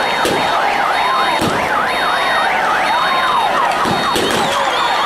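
Several electronic sirens sounding together: rapid up-and-down yelping sweeps overlapping a slower rising-and-falling wail, with a few short knocks.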